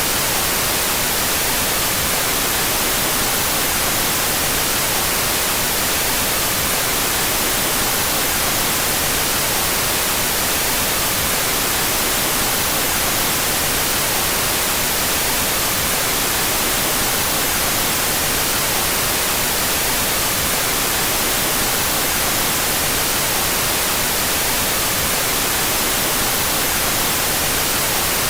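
Steady generated white noise, an even hiss brightest in the high end, played with its left and right channels out of phase.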